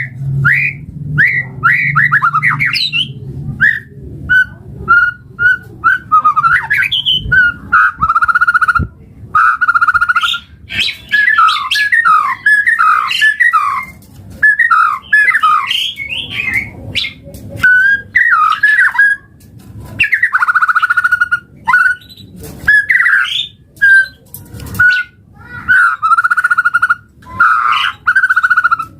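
White-rumped shama singing a long, varied song: clear whistled notes, fast trills and harsh chattering phrases, broken by short pauses.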